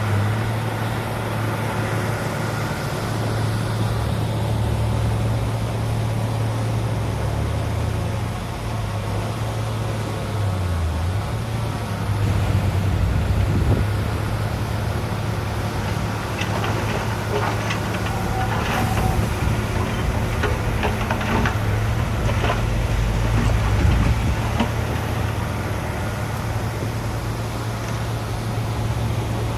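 Heavy diesel engine of earthmoving machinery running steadily, its hum rising and falling in load. Scattered knocks and clanks come through in the middle.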